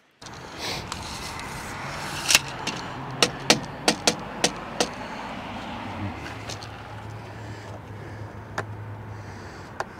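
Hammer knocking on wood, about seven sharp irregular blows in under three seconds, over a steady low hum.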